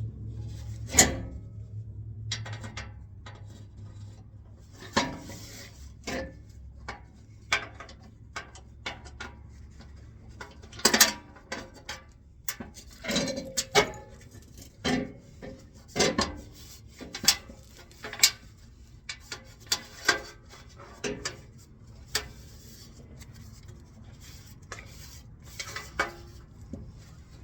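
Irregular clinks, knocks and scrapes of hard objects being handled, a few sharp ones louder than the rest. A low hum fades out in the first two seconds.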